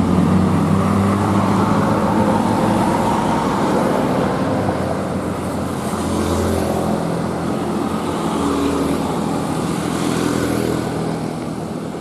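Truck engine running amid road traffic, its pitch shifting a few times.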